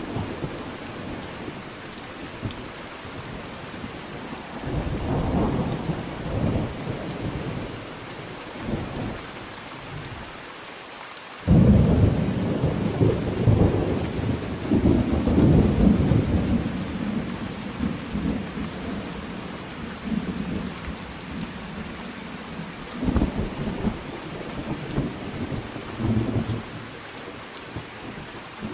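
Thunderstorm with steady rain falling. Thunder rumbles about five seconds in, then a sudden loud crack about eleven seconds in rolls on for several seconds, and another rumble comes near the end.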